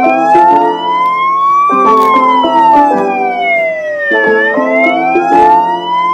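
A wailing siren that rises slowly in pitch, falls, then rises again, over background music with stepped melodic notes.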